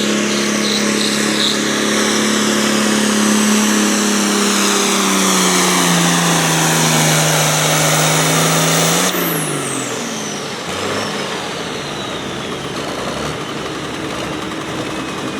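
Competition pulling vehicle's engine at full throttle under load, its pitch slowly sinking as it bogs down the track. About nine seconds in, the engine lets off and winds down, and a high whistle falls away.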